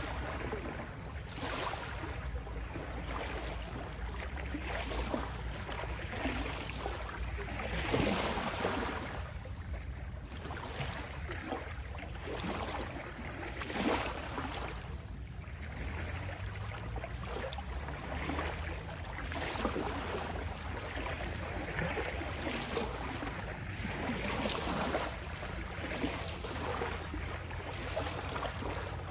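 Small waves lapping and rippling at the shore, a steady wash of water with irregular splashes and swells, a little stronger about eight and fourteen seconds in.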